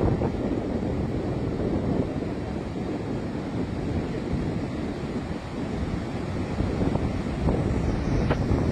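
Floodwater rushing out of a dam's release, a steady low rush of water, with wind buffeting the microphone.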